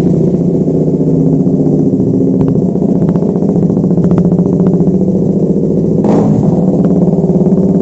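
KTM RC 200's single-cylinder engine running loud and steady at idle through a freshly fitted SC Project exhaust with a stainless steel bend pipe, with a short swell about six seconds in.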